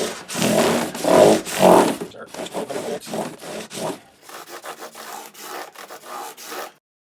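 Scrub block with fine-grit abrasive paper rubbed back and forth across the frets of an acoustic guitar, scrubbing out marks worn by the strings. A few long, heavy strokes at first, then lighter, quicker strokes until it stops abruptly near the end.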